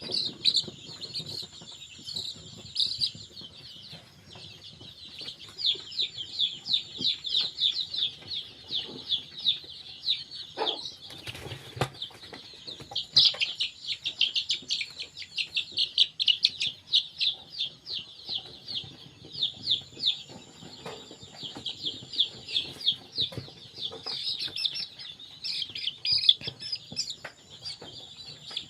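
A brood of two-week-old chicks peeping, many rapid high chirps overlapping without pause. A brief rustle or knock comes about eleven seconds in.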